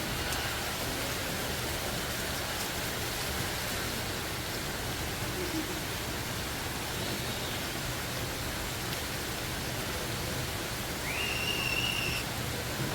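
Steady rushing noise in an indoor tropical rainforest exhibit, like falling water or misting. Near the end comes a single high whistled call, about a second long, that rises and then holds.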